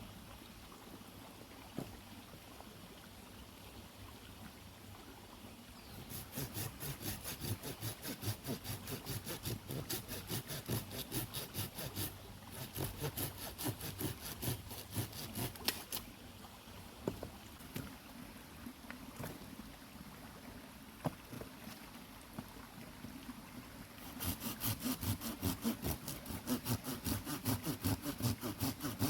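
Hand saw cutting wood in steady back-and-forth strokes, about two a second, in three bouts with pauses between; the first bout begins after several seconds of low steady background.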